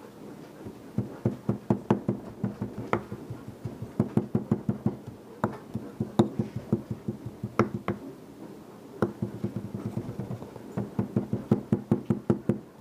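Casting sand being rammed into a sand-casting mold with a dowel: quick runs of knocks, several a second, broken by short pauses.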